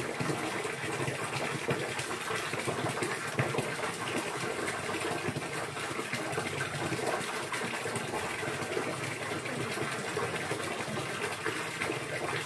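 Steady gushing of running water, an even rushing noise with no breaks.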